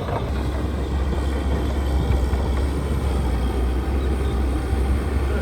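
Heavy earthmoving machine's diesel engine running steadily under load, a deep low drone with a rough mechanical rumble over it.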